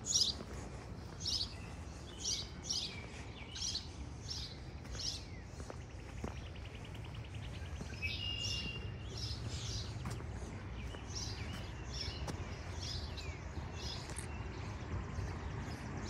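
Songbirds chirping outdoors: a steady run of short, high chirps about two a second, with a fast buzzy trill about six seconds in, over a steady low rumble.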